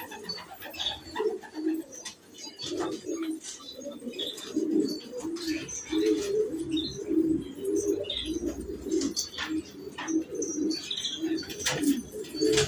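Several domestic pigeons cooing, low overlapping coos following one another without a break, with scattered short high chirps and a few sharp clicks.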